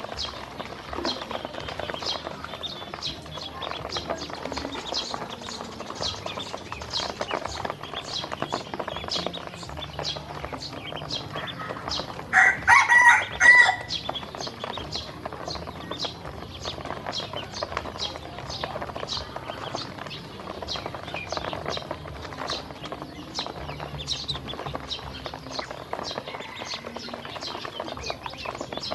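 A flock of hungry baby ducklings feeding, a dense stream of short, sharp high sounds. About twelve seconds in, a loud call from a farm bird lasts just over a second.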